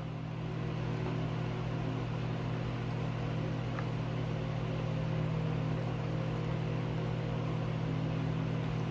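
A steady low electrical hum, even throughout, with a couple of faint clicks.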